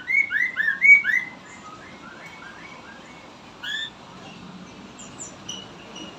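Poksay mandarin singing: a quick run of loud, slurred whistled notes in the first second or so, then softer scattered notes with one louder note near the middle.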